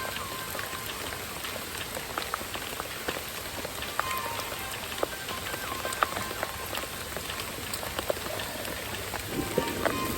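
Steady rain falling, with many individual drops ticking sharply and irregularly on nearby surfaces.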